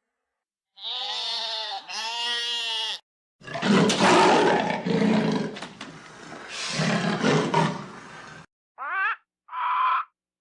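A sequence of animal calls. First come two calls with a wavering pitch, then a long, loud, harsh call lasting about five seconds, and near the end two short higher calls.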